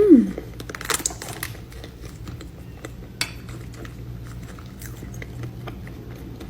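Close-miked eating of a dessert pastry: a short hummed "mm" at the start, a crisp bite about a second in, then chewing with small clicks and crackles.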